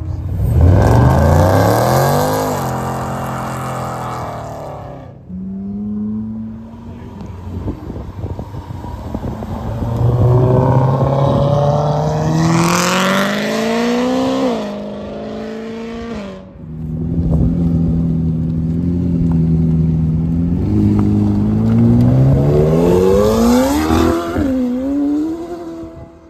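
Three cars accelerating hard past in turn, each engine note climbing in pitch and dropping back at a gear change.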